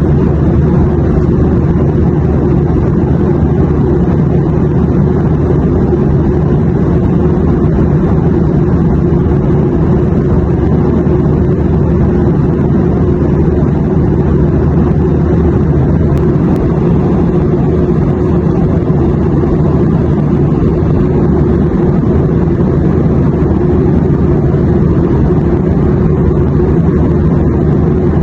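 Airliner cabin noise in flight: a steady, unbroken low drone that stays the same throughout.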